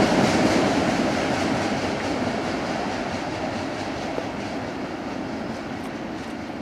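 Freight train cars rolling along the track, steel wheels clicking over the rail joints, the sound fading steadily as the train moves away.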